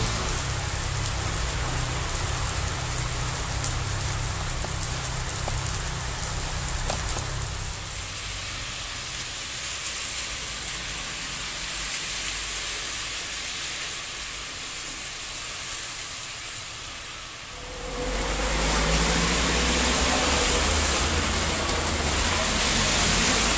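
Heavy downpour hissing steadily on the pavement and road. About eighteen seconds in it gets louder and fuller, with more low rumble.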